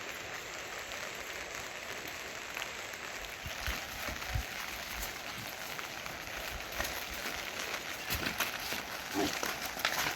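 Steady rain falling, with scattered drips and taps on surfaces and a few dull low knocks.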